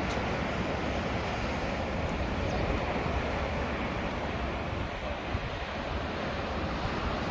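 Steady wind on the microphone, rumbling low, over the hiss of sea surf.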